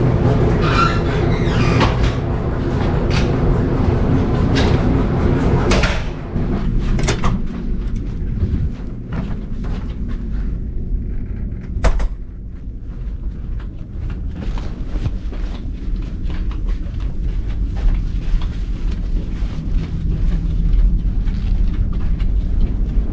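Steady low machinery hum with many scattered clicks and knocks; the hum drops in level about six seconds in.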